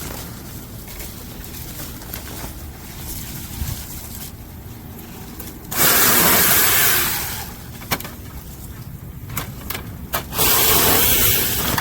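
Cordless electric mini chainsaw revved in two loud bursts of about a second and a half each, about six seconds in and near the end, as it cuts into wood, with quieter handling noise and a few clicks between.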